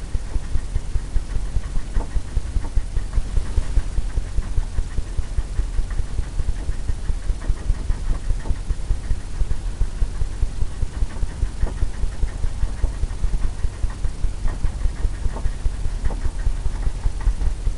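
A stiff paintbrush tapping rapidly against a stretched canvas: a steady run of dull thumps, several a second, as oil paint is stippled and softened wet-on-wet.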